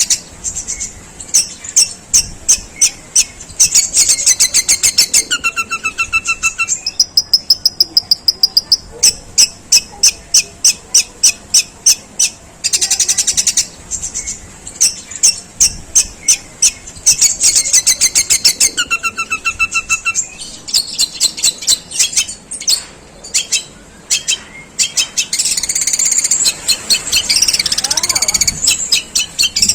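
Long-tailed shrike singing in long harsh runs of short chattering notes, about five a second, broken by short pauses. The runs are the sparrow-like 'gerejaan' bursts, imitating a Eurasian tree sparrow. Twice a short pair of clear whistled notes cuts in.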